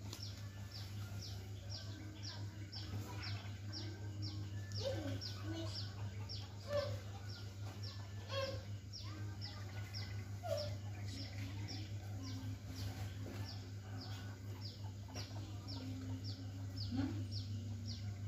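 A bird chirping over and over, short high falling notes about twice a second, over a steady low hum, with a few fainter lower calls scattered through.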